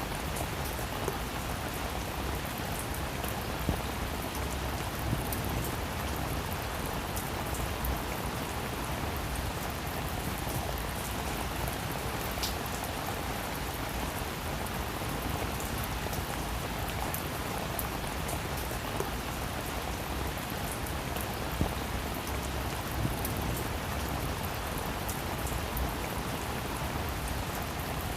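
Heavy rain falling steadily, a dense even hiss with many individual drops ticking on a surface and a few louder drops now and then.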